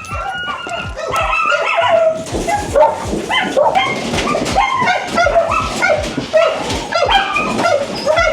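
Several dogs barking at once, overlapping calls at different pitches, getting louder about a second in and staying busy.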